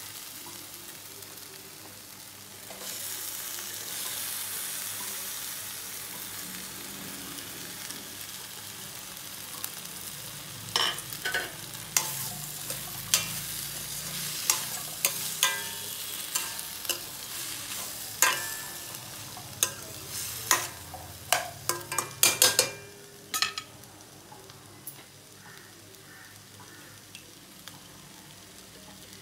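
Chopped okra, onion and tomato frying in a stainless steel kadai with a steady sizzle that grows louder about three seconds in. In the middle a spatula clinks and scrapes against the steel pan many times as the okra is stirred in.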